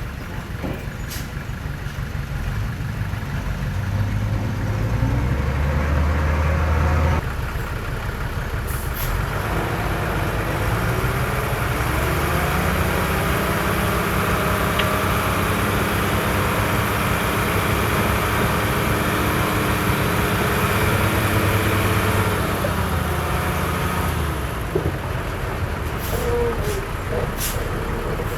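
Heavy diesel engines of earthmoving machinery, a bulldozer and dump trucks, running and working. The sound changes abruptly about seven seconds in, then the engine note rises and holds before easing off near the end.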